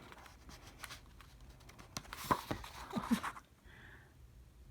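Quiet handling of a K-pop album and its packaging: a few soft clicks and rustles about two to three seconds in.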